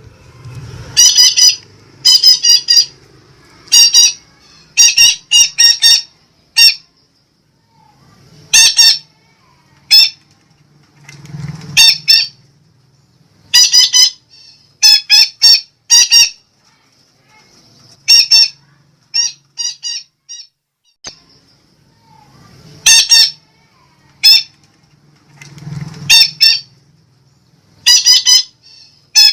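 Sumatran betet (red-breasted parakeet) calling: loud, harsh squawks in quick groups of two to four, the groups following one another every second or two.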